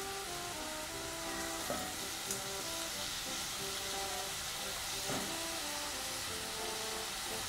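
Light background music with a simple melody of short notes, over a steady sizzle of raw banana pieces frying in hot oil. A couple of soft knocks as pieces drop into the pot.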